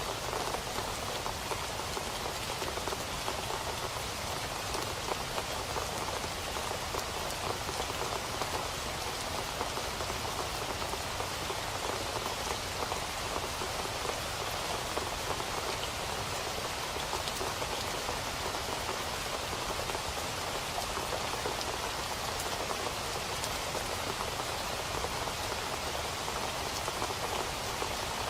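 Steady rain falling and pattering on a surface, an even unbroken hiss with fine drop ticks throughout.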